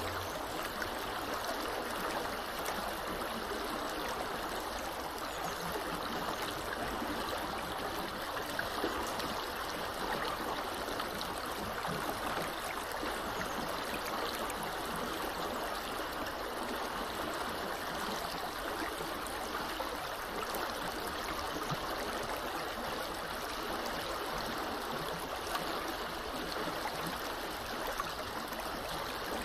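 Small river flowing steadily over shallows, a continuous rushing and gurgling of water.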